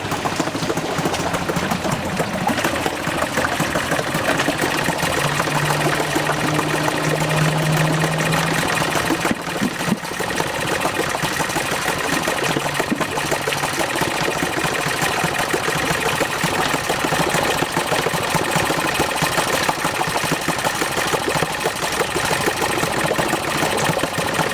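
Yamaha 4 hp two-stroke outboard motor running steadily. The owner says its carburettor needs going through and adjusting.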